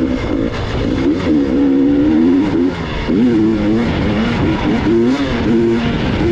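Gas Gas EX 300 two-stroke enduro motorcycle engine being ridden over a rocky road, its pitch rising and falling again and again as the throttle is opened and closed.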